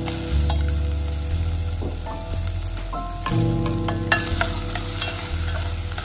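Minced ginger sizzling in hot oil in a stainless steel pot as it is stirred with a wooden spoon, with a few sharp knocks of the spoon against the pot. Background music with held notes plays throughout.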